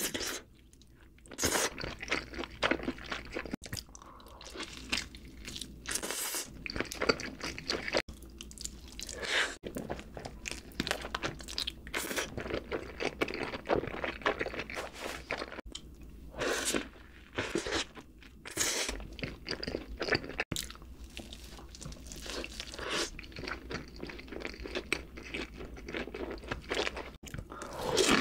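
Close-miked mouth sounds of a person biting and chewing BBQ fried chicken: continuous wet chewing with a handful of louder crunchy bites spread through.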